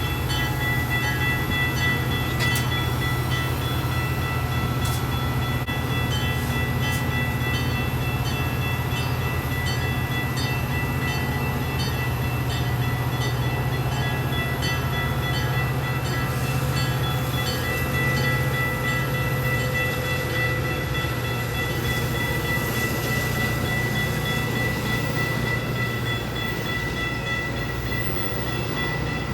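Train running steadily, with a low engine drone and several steady high ringing tones over it.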